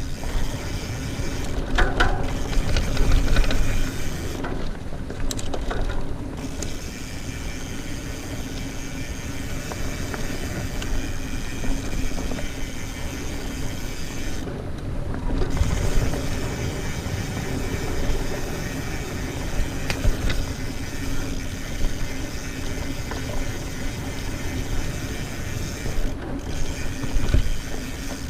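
Mountain bike rolling fast along a dirt trail: tyre noise and chain and drivetrain rattle over a constant low rumble, with scattered clicks.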